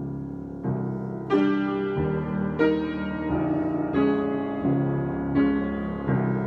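Solo piano improvisation: sustained chords struck one after another, a new chord about every two thirds of a second.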